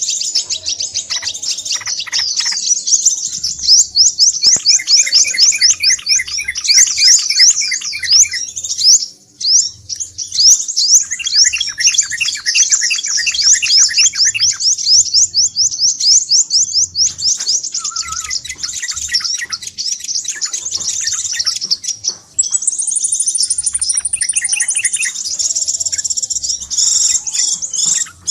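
Crimson sunbird (sepah raja) calls in a dense, busy lure recording: rapid, high, sharply sweeping chattering notes with little pause. Bouts of a lower, evenly repeated trill come and go several times.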